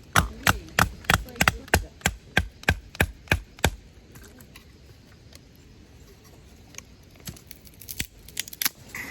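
Knife chopping on a cutting board in quick, even strokes, about three a second, stopping after nearly four seconds. A few lighter clicks and knocks follow near the end.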